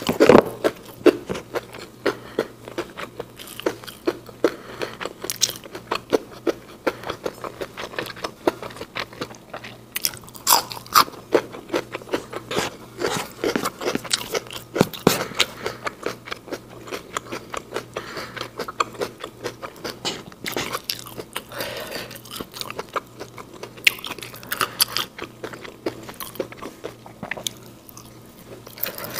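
Close-miked eating sounds: crisp crunching bites and chewing of raw green beans and fried rice eaten by hand, with many irregular wet mouth clicks.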